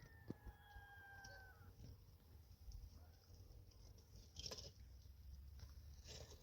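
Faint outdoor quiet with one drawn-out animal call at the start, lasting under two seconds and falling slowly in pitch. Two brief soft rustles follow later.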